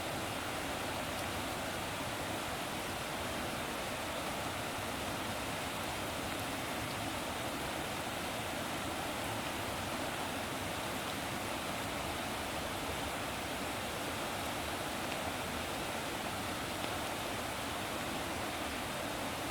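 Steady, unbroken rushing of water, an even wash of noise with no distinct events.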